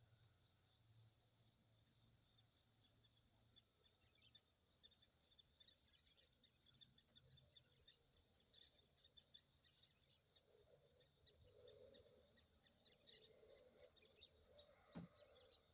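Near silence: faint outdoor ambience with a steady high chirring of crickets, and a single faint click near the end.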